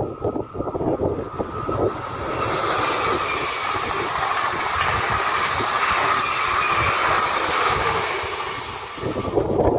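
A train passing at speed: a steady rush of wheels on rails that swells about two seconds in and falls away shortly before the end. Wind buffets the microphone before and after it.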